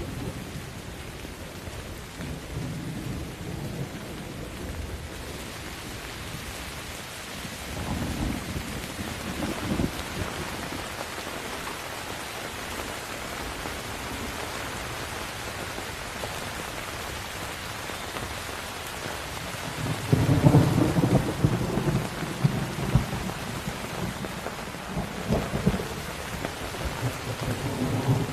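Steady rain falling during a thunderstorm, with rolling thunder. A low rumble comes about eight seconds in, a louder, longer rumble about twenty seconds in, and more rumbling near the end.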